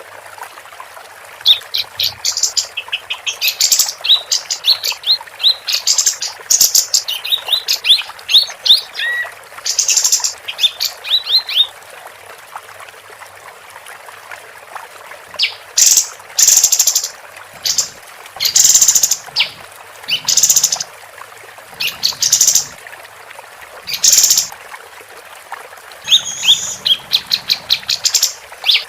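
Female kapas tembak songbird singing in bursts of quick high chirps and short trills, mixed with harsh, hissy calls. There is a quieter gap from about 12 to 15 seconds in.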